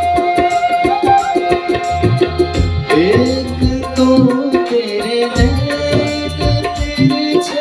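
Devotional bhajan music: tabla playing a quick, steady rhythm under a held, gliding melody line, an instrumental passage between sung verses.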